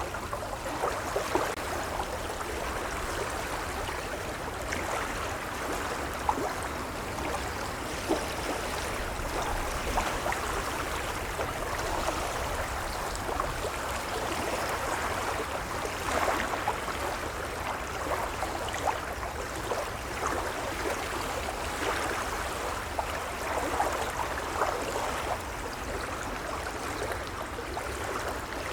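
Gentle waves lapping, a steady wash of water broken by many small splashes.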